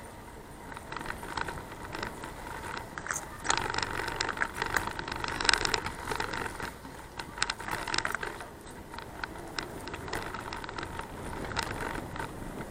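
Rattling, clicking and scraping from a moving bicycle. A busier, louder stretch of sharp clicks and scrapes runs from about three and a half to eight seconds in, then the rattle eases back.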